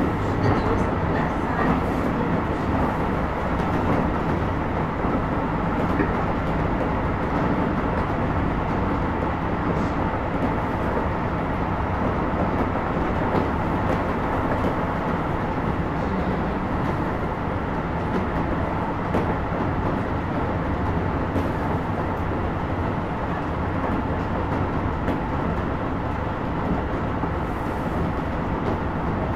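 Keisei 3000 series electric multiple unit running between stations, a steady rumble of wheels on rail that holds even throughout.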